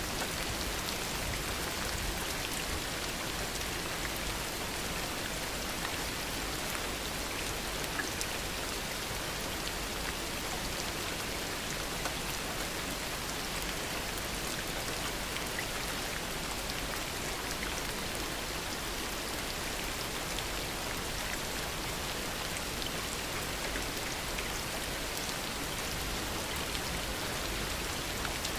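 Heavy rain falling steadily: a dense, even hiss with scattered individual drop taps.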